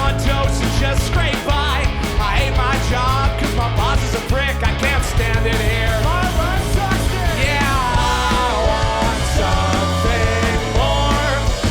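Live rock band playing loud, punk-leaning rock music.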